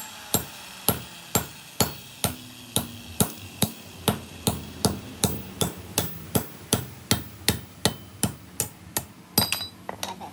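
A hammer striking steel in a steady run of about two blows a second, each with a short metallic ring. The blows come a little quicker toward the end, with a quick double blow just before they stop.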